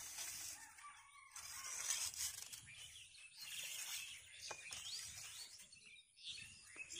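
Faint birds chirping over quiet rural outdoor ambience, with a couple of soft clicks.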